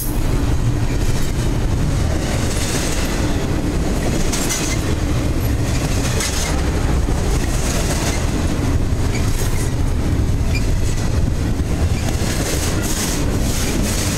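Double-stack intermodal train's well cars rolling past, a loud steady rumble of steel wheels on the rails with clickety-clack over the rail joints.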